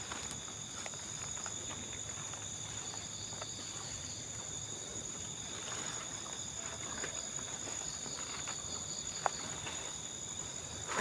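Night insects, crickets, trilling steadily in high, continuous tones, with a faint pulsing chirr among them. A few faint ticks and one sharper click about nine seconds in.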